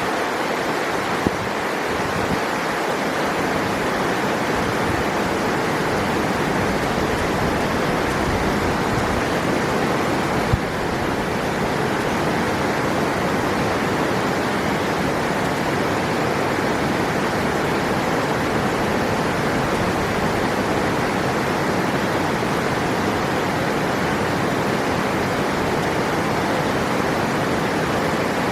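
River water rushing steadily over rocks, an even roar of flowing water with no break.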